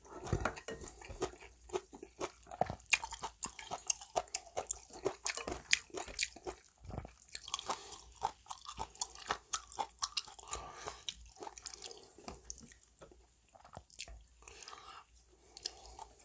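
Close-miked chewing of a mouthful of janchi-guksu noodles with crisp, crunchy bites of vegetables: many quick wet clicks and crunches, coming thickly at first and thinning out over the last few seconds.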